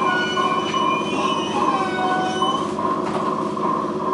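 IGR Iwate Galaxy Railway 7000 series electric train slowing for a station stop, heard from inside the car: steady running rumble with high whining, squealing tones, some of which slide down in pitch about a second and a half in.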